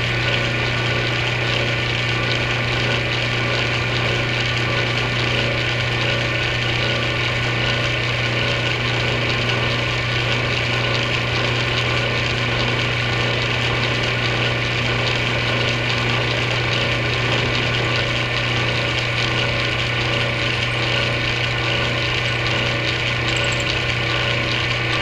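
Antique Atlas metal lathe running steadily, its motor and drive humming, while a drill bit bores through a 5/8-inch rod held in a crotch centre.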